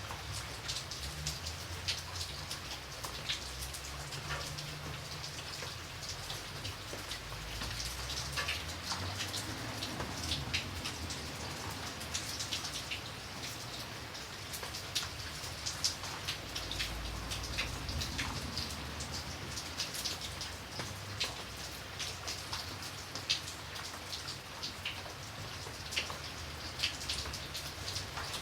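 Steady rain with many separate drops ticking on a surface, over a faint low rumble.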